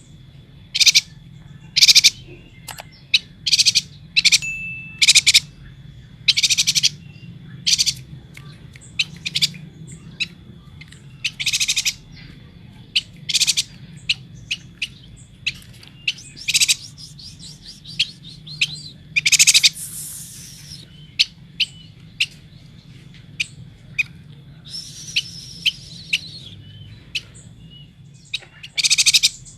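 Yuhina calling over and over: short bursts of high chirps every second or two, some longer and buzzier, with a faint steady high tone behind.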